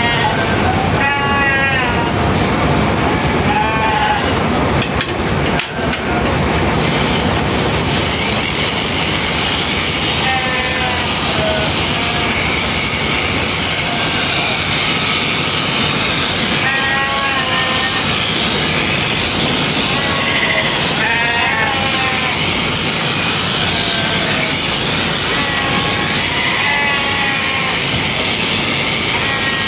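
Sheep bleating every few seconds over a steady, dense mechanical whirr, which fits electric sheep-shearing clippers running.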